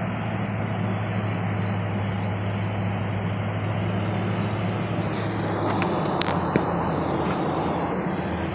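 A 1991 Ford F-150's 5.0-litre V8 runs steadily under way with a low engine hum and road noise. About six seconds in the engine note drops, and a few sharp clicks come through.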